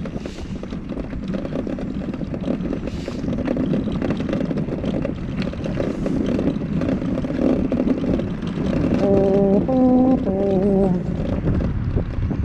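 Mini Crosser mobility scooter driving over rough ground, its wheels and frame rattling. About nine seconds in, a short tone of three steady notes sounds.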